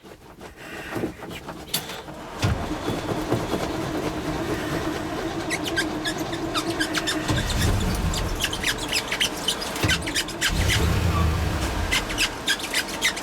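Starter cranking the cold 383 stroker V8 of a 1963 Chevrolet C30 wrecker while the gas pedal is pumped, the engine firing in rough deep bursts about halfway through and again near the end as it tries to catch in the cold.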